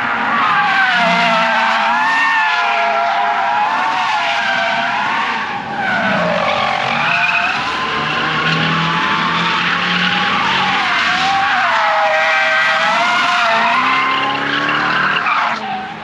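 A car's tyres squealing under wheelspin, a loud screech that wavers up and down in pitch, with the engine running hard beneath it. The squeal dips briefly about six seconds in and again near the end.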